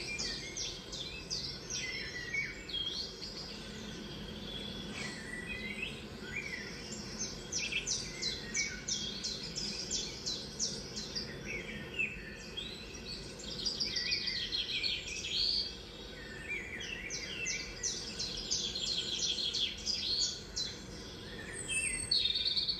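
Small songbirds chirping and trilling from a bird video playing on a TV, with many quick, overlapping calls and rapid trilled runs going on continuously.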